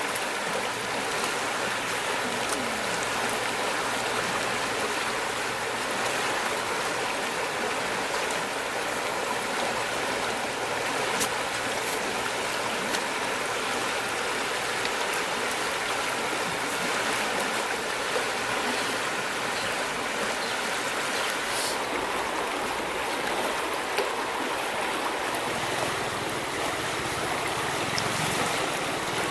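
River water flowing, a steady rushing babble, with a few faint clicks now and then.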